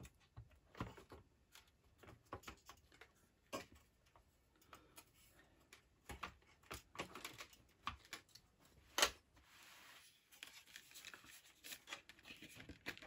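Scattered light clicks and knocks of a circuit board against a metal computer chassis as the Macintosh 512Ke's analog board is worked into its slots, with one louder knock about nine seconds in.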